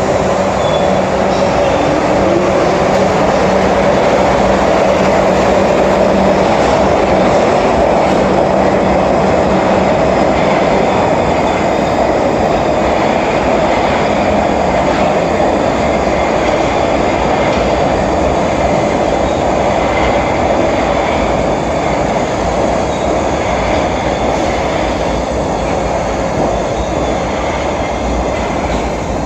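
New York City Subway (3) train running on the track, a loud steady rumble of wheels and cars with some clatter from the rails, easing slightly toward the end.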